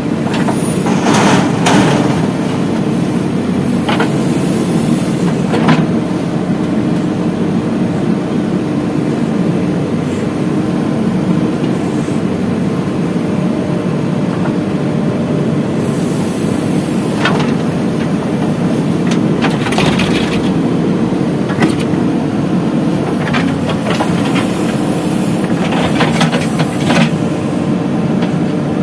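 Heavy diesel engine running steadily, with scattered sharp clanks and scrapes: one about a second in, others around four and six seconds, and a cluster near the end.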